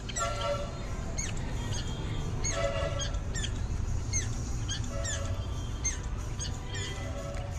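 Java sparrows chirping: many short, high, quick calls from several birds, repeated irregularly, with a few lower, fuller calls among them.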